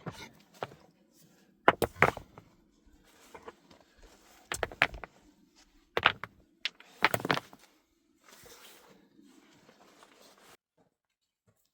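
Sharp knocks and scrapes of hands-on work, coming in short clusters every second or two, over a faint low hum. Near the end a soft rustling takes over, then the sound cuts off suddenly.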